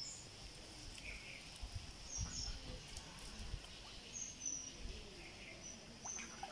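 Outdoor ambience: small birds giving short high chirps every second or so over a steady high hiss, with a few soft low thumps.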